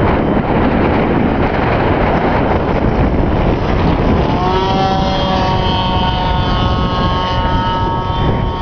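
Heavy wind buffeting the microphone, and about halfway through the high-pitched note of a 40-size Cap 232 radio-control model's glow engine comes in, rising quickly in pitch and then holding steady at high revs. The pilot believes the engine is a Magnum .75.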